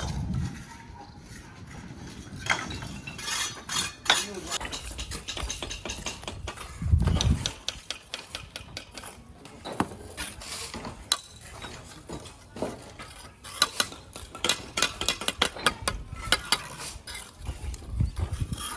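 Hand tools clinking and scraping on hard material, many sharp metallic clicks coming thick and fast in the second half, with a couple of heavier thumps, one about seven seconds in and one near the end.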